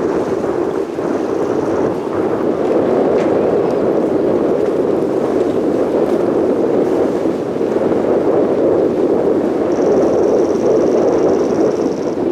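Steady jet noise from the MB-339 PAN jet trainers of an aerobatic formation in flight. A faint high whine joins it near the end.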